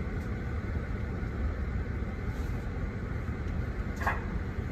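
Car engine idling, heard from inside the cabin as a steady low rumble, with one brief higher-pitched sound about four seconds in.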